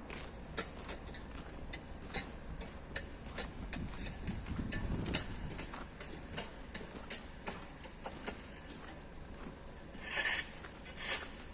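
Ice crackling and clicking after freezing rain: many sharp, irregular clicks, with two louder crunches about ten seconds in, over a low steady rumble.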